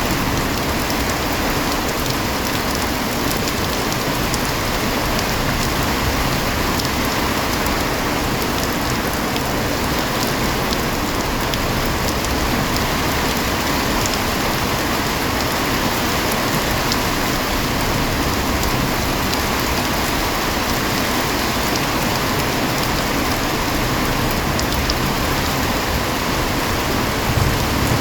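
Steady heavy rain, an even hiss of drops falling on surfaces. Near the end a low rumble of thunder begins to build.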